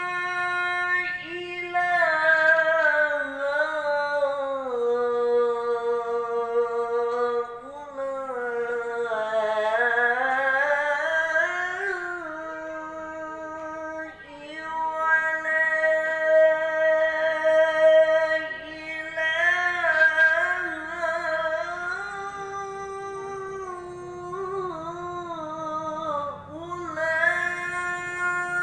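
Quran recitation in the melodic tilawah style by a man, holding long drawn-out notes that glide slowly down and up in pitch with small ornamental turns, with brief pauses for breath.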